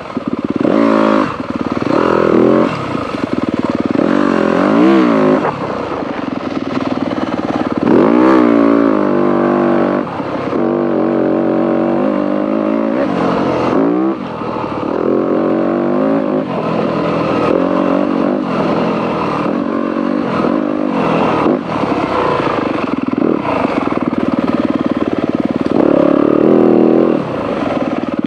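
Dirt bike engine revving up and down over and over as the throttle is opened and closed through tight single-track trail, with some clatter.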